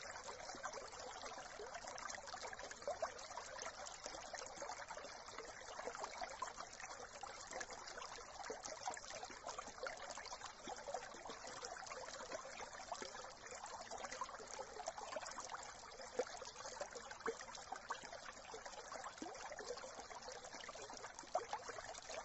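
Small brook trickling and babbling over stones, a steady run of water with many small splashes and gurgles.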